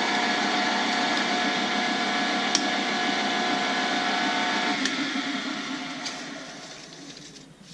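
Lathe spindle running steadily with a whining hum, then dying away from about five seconds in as it coasts down after the drilling has reached the quill's full travel.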